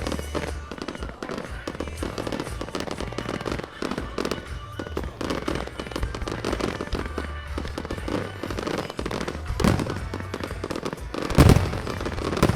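Aerial fireworks bursting in quick succession, a run of bangs and crackles, with the loudest boom about eleven seconds in. Music plays underneath.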